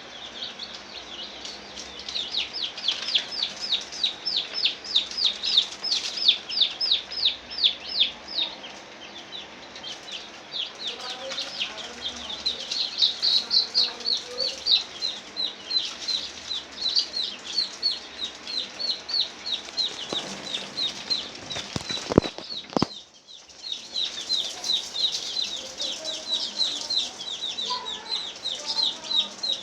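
A flock of chicks in a poultry house peeping continuously: many short, high peeps, several a second. A couple of sharp knocks come about two-thirds of the way through.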